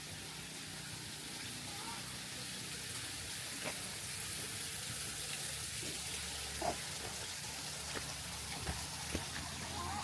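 Steady rushing of flowing water, with a few faint sharp clicks scattered through it.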